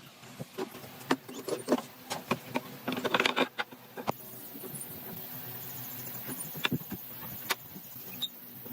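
Irregular sharp clicks and knocks, bunched densely about three seconds in, then a steady hiss with a few isolated clicks.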